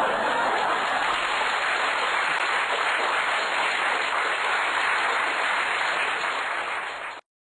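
Steady applause from a crowd after a joke's punchline, cutting off suddenly near the end.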